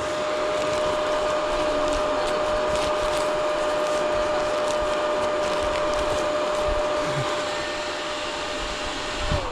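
Dirt bike engine running at a steady speed, a constant whine over a steady whir, that drops in pitch as the revs fall just before the end.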